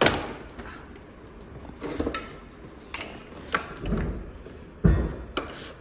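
Metal clinks and knocks from hand tools and parts being handled while working on a car's engine bay: a handful of separate sharp strikes, the loudest right at the start and another just before the end.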